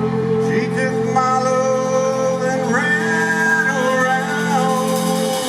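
Live band music: a held chord with a melody line over it that slides between notes. The bass notes change near the end.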